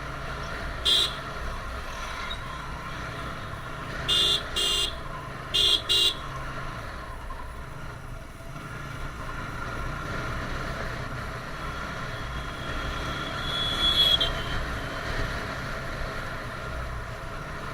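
Motorcycle riding in traffic, a TVS Apache RTR 160, with its single-cylinder engine and road noise running steadily. Short horn toots sound once about a second in, then in two quick pairs at around four and six seconds. A thin high whine swells and cuts off about fourteen seconds in.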